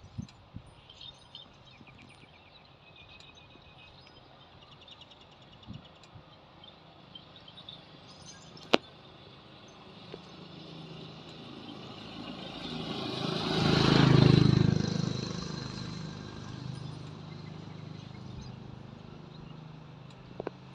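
A motor vehicle passes by, growing louder to a peak about two-thirds of the way through and then fading away. A single sharp click comes a few seconds before it.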